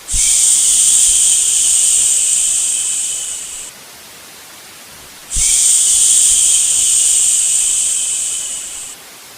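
A long soothing "shhh" shush, twice, each about three and a half seconds, starting sharply with a slight thump and fading toward its end. Under it runs a steady, quieter white-noise hiss.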